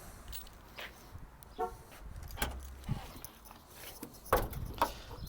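Scattered light clicks and knocks from handling the car, with one short beep-like tone about one and a half seconds in.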